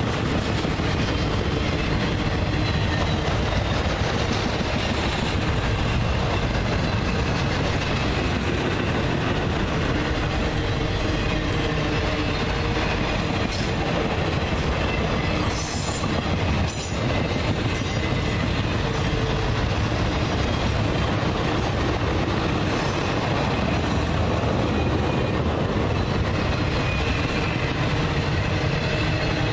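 Intermodal freight train of flatcars carrying semi-trailers rolling past at steady speed: continuous noise of steel wheels running on the rails.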